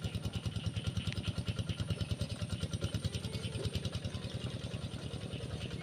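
Tractor engine running steadily, with an even, rapid beat of about seven or eight low pulses a second.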